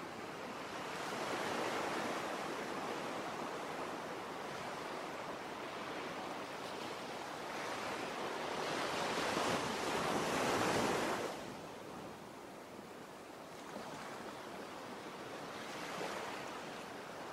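Ocean surf: waves breaking and washing in, swelling and ebbing, with the biggest surge a few seconds before the middle that falls away suddenly.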